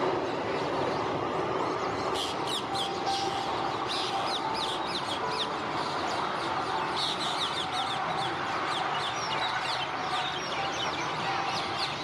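Small birds chirping in quick runs of short high notes from about two seconds in, over a steady rush of outdoor background noise.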